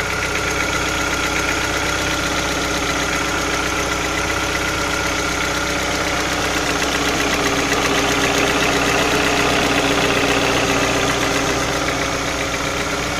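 Volkswagen-group BSE 1.6-litre four-cylinder petrol engine running steadily with a knock from the engine, the fault the owner is recording. It gets slightly louder a little past the middle, then settles back.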